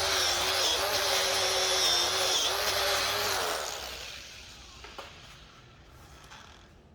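A power tool running with a steady, high whine that wavers slightly in pitch, then switched off about three and a half seconds in and winding down.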